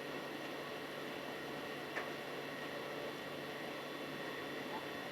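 Steady background noise with a faint low hum, broken by one brief click about two seconds in.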